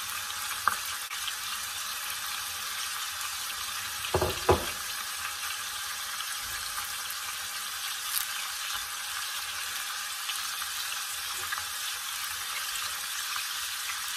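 Chicken pieces frying in butter and olive oil in a pan, a steady sizzle, with a sharp click about a second in and a louder double knock of a utensil against the pan around four seconds in.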